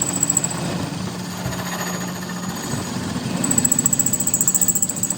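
Rapid mechanical hammering from a power tool, pulsing quickly and evenly, loudest near the start and again from about three and a half seconds in.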